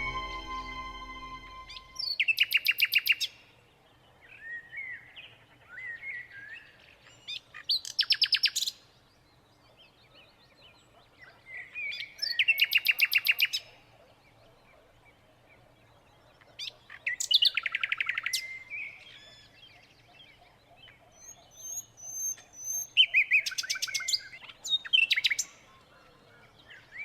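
Small songbirds calling: a loud, rapid buzzy trill comes about every five seconds, five times in all, with softer chirps and twitters between. A held musical chord fades out during the first two seconds.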